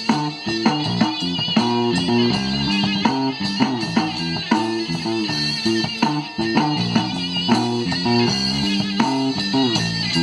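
A band playing, led by electric guitar over a bass line, with a quick run of picked notes.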